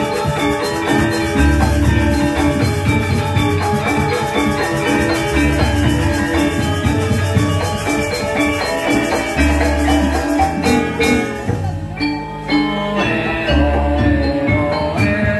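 Balinese gamelan music: metallophones ringing in dense interlocking patterns over drums and recurring deep low strokes, thinning briefly about three-quarters of the way through.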